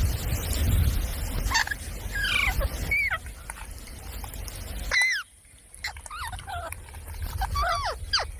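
Parrot giving a series of short squawking calls that sweep up and down in pitch, over a low rumble that stops abruptly about five seconds in.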